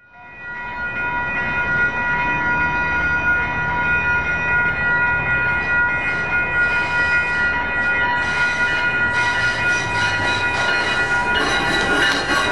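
Nippon Sharyo diesel multiple-unit train arriving over a grade crossing: engine and wheel rumble, fading in at the start and growing fuller near the end as the train draws close, with several steady high tones sounding over it.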